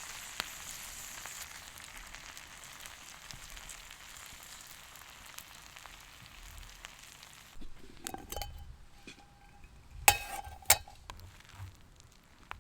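Food sizzling in a hot pan, the hiss slowly dying down, then breaking off. After it come a few sharp clinks of cookware or utensils with a short ring, the two loudest about ten seconds in.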